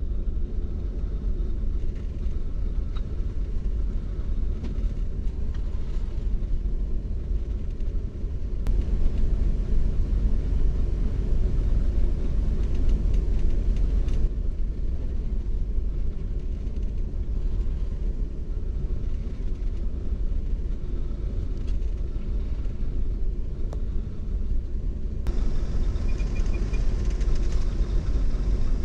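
Steady low rumble of a tanker's machinery and hull vibration heard inside the ship's bridge as the vessel runs through a heavy sea.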